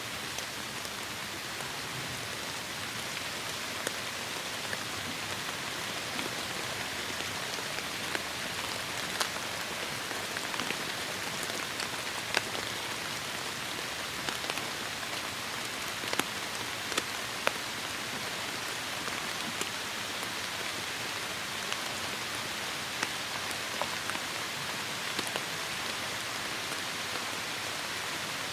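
Steady heavy rain falling, a constant hiss with many individual drops striking close by as sharp little ticks.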